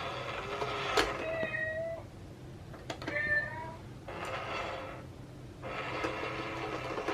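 Cat meowing several times, short calls that bend in pitch, with breathier stretches between them.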